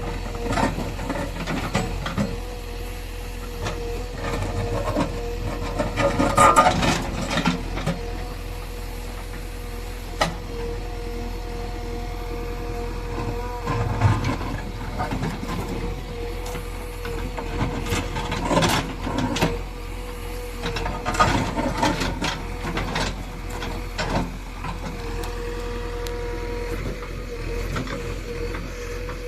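JCB 3DX Eco Xpert backhoe loader's diesel engine running steadily with a constant whine. Several louder bursts of noise come as the machine works, the biggest a few seconds in.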